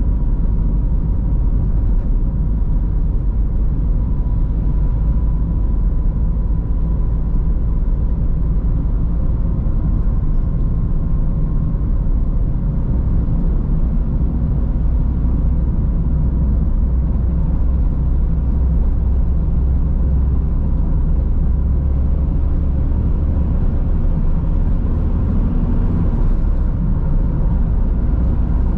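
Car driving steadily along a road: continuous tyre and engine rumble, heaviest in the low end, with a faint steady whine above it and no change in speed.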